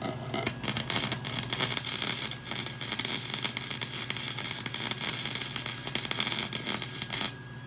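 Arc welding on a minibike's steel frame: the arc strikes just under a second in and crackles and hisses steadily, then cuts off about seven seconds in as a hole in the rear frame is welded shut.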